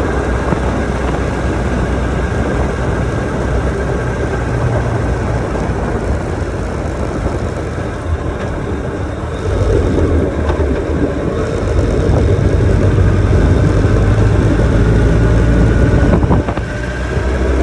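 Motorcycle engine running without a break, strongest in the low end. It grows louder about halfway through and dips briefly near the end.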